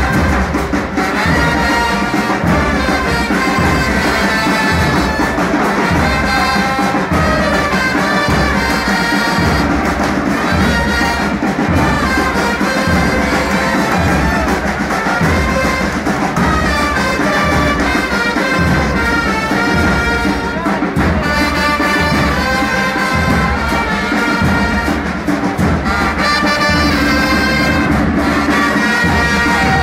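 Brass band of trumpets and trombones playing the tune of a football chant over a steady bass drum beat.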